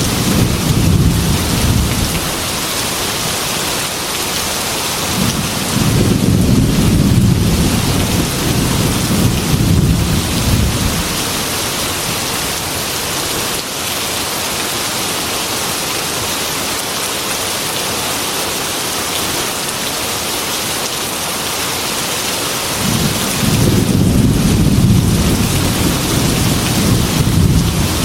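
Heavy rain beating steadily on a glass window, with low rolls of thunder rumbling three times for several seconds each: at the start, in the middle and near the end.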